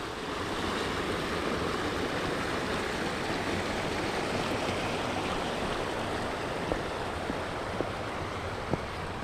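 Mountain stream rushing steadily, with a few light clicks near the end.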